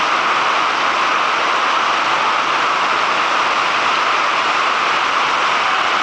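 Steady, loud rushing noise of strong wind and swift-flowing water, even and unbroken without gusts or strokes.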